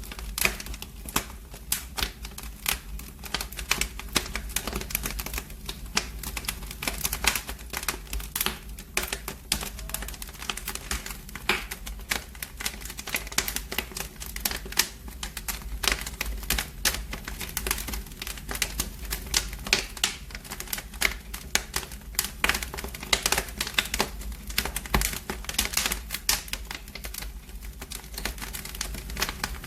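Wood fire crackling in a fireplace: a steady stream of irregular sharp pops and snaps over a low, even rumble of the flames.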